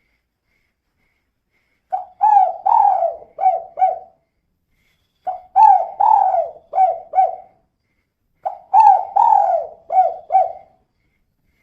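Female spotted dove (tekukur) cooing in the 'kuk 2' style: three phrases of about five short coos each, separated by pauses of about a second.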